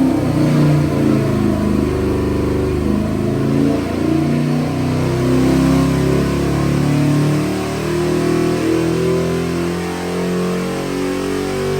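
Chevy LS3 376 cubic inch V8 running on an engine dyno, revved so that its pitch keeps shifting up and down.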